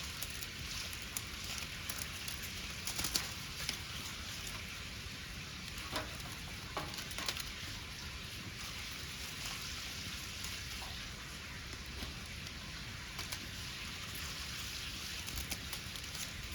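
Wood fire crackling: a steady hiss with scattered small pops and clicks.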